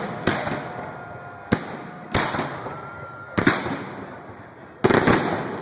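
Aerial fireworks shells bursting in a display: about six sharp bangs at uneven intervals, each trailing off in a rolling echo.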